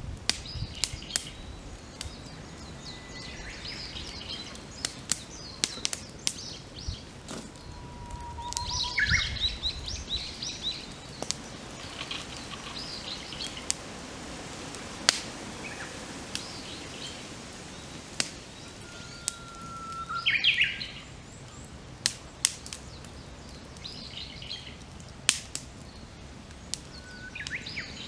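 Wood campfire crackling with frequent sharp pops, while wild birds chirp and sing at intervals, with short whistled notes and the busiest calling about nine and twenty seconds in.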